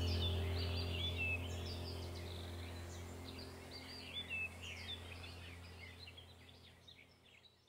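Small birds chirping repeatedly over a low, steady hum that fades away gradually.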